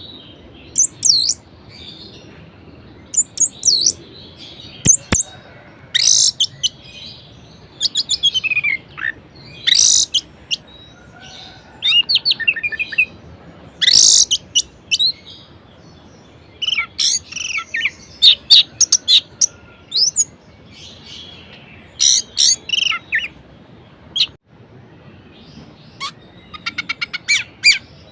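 Orange-headed thrush singing a varied song: short, loud phrases of high, quick, often falling notes, separated by brief pauses, some phrases running into rapid strings of many notes.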